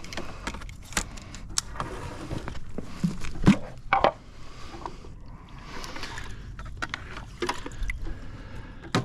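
Irregular clicks, knocks and scrapes of pool-service gear being handled, with a few sharper knocks about a second in and around three and a half to four seconds in.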